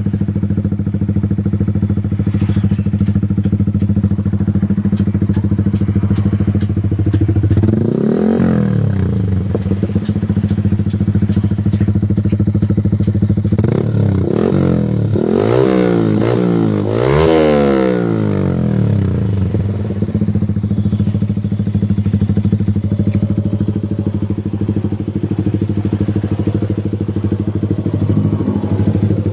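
Yamaha R15 V3's single-cylinder engine breathing through an aftermarket exhaust, idling steadily. It is blipped once about eight seconds in, then given several quick throttle blips between about 14 and 18 seconds, each rising and falling back to idle.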